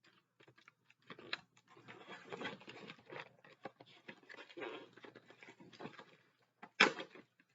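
Close handling noises as a model car and its packaging are worked by hand: irregular rustling and crinkling with many small clicks and knocks, and one louder sharp click near the end.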